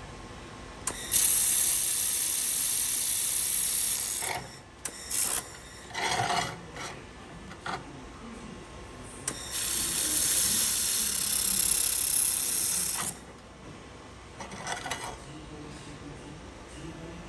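Handheld laser welder firing: two long runs of about three seconds each with a high hiss, and several short bursts between and after them.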